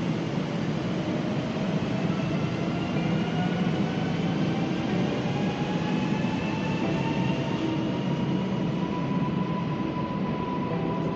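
PKP Intercity passenger train moving through the station with a steady running noise, and a whine from its electric drive that rises in pitch as the train speeds up, then levels off near the end.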